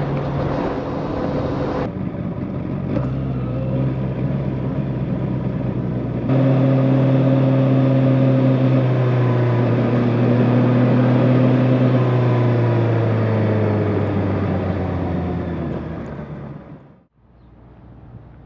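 Honda motorcycle engine running at cruising speed, a steady engine note under road and wind noise. About six seconds in it gets suddenly louder, then its pitch slowly falls as the bike slows, and it fades out about a second before the end, leaving quieter wind noise.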